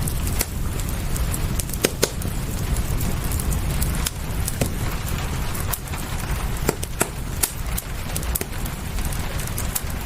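Wood fire crackling, with irregular sharp pops and snaps over a steady low rumble, and an even hiss of rain behind it.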